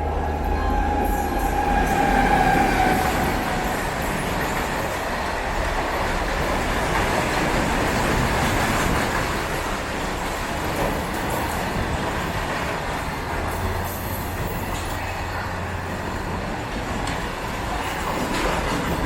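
Train moving along a station platform: a steady rumble of coaches and wheels on the rails, with a brief high squeal from about half a second to three seconds in.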